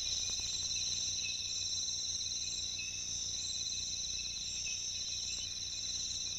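Rainforest insect chorus: several insects calling steadily at different high pitches, with a low steady hum beneath.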